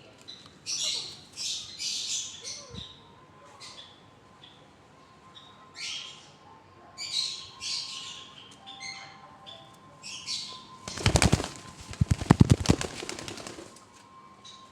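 Pet parrots giving short, harsh squawks again and again, then, about eleven seconds in, a loud flurry of rapid wingbeats lasting about two and a half seconds as a parrot flaps its wings.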